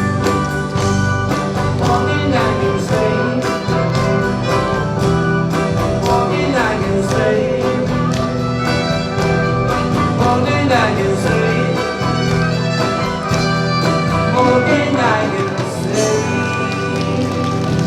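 Live band playing an oldies pop song, with a steady bass-and-drum beat under sustained melodic lines.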